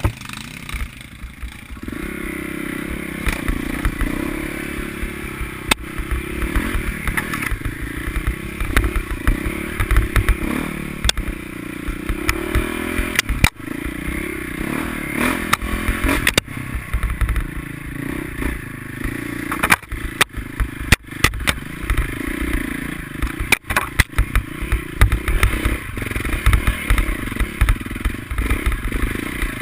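Motocross motorcycle engines running and revving up and down, with scattered sharp knocks and clattering.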